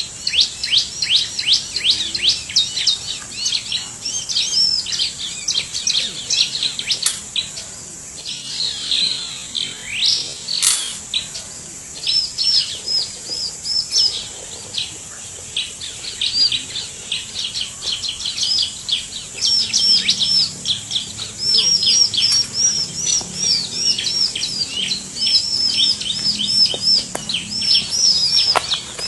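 Bar-winged prinia calling: rapid runs of short, high, sharp chirps repeated again and again with brief pauses, over a steady high-pitched whine. A couple of sharp clicks cut in, around seven and eleven seconds in.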